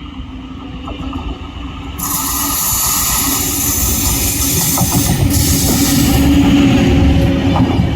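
Electric locomotive-hauled express train running past close by, its rumble and rail noise growing steadily louder, with a sharp rise in hiss about two seconds in and a steady hum underneath.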